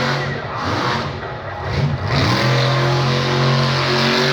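Monster truck engine running hard, easing off briefly and then revving up about halfway through, held steady at high revs.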